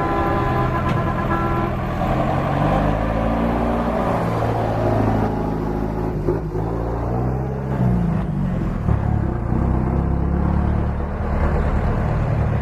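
Heavy truck engine running and revving, its pitch rising and falling several times. A held multi-note horn sounds at the start and stops about one and a half seconds in.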